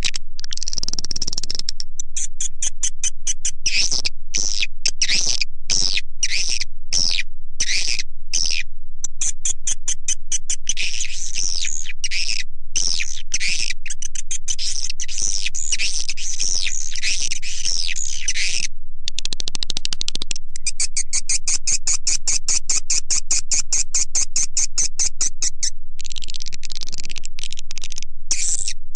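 Swiftlet call sound: dense, fast, high-pitched twittering and chirping of swiftlets, in rapid trains and short bursts with only brief gaps, played as a lure to draw swiftlets into a nesting house.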